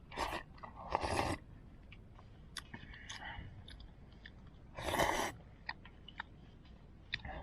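A person eating instant noodles: three short slurps, the loudest about five seconds in, with chewing and small clicks in between.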